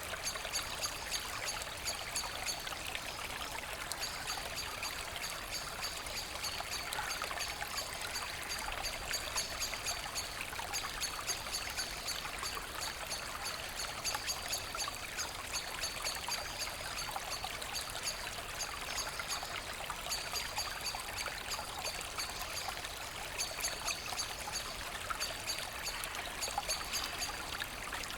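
Forest brook babbling and trickling over stones: a steady, even rush of flowing water.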